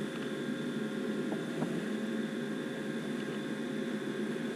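Furnace draft inducer motor running with a steady hum and whir, pulling only about 0.23 inches of water column of vacuum, short of the 0.33 needed to close the pressure switch, which points to a restriction in the exhaust or heat exchanger. Two faint ticks about a second and a half in.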